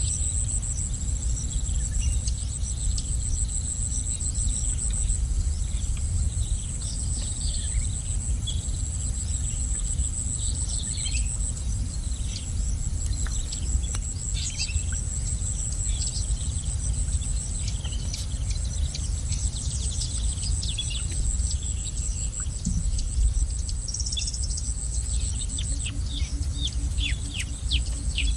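Small birds chirping in many short, quick calls, more of them near the end, over a steady high-pitched insect drone and a low rumble.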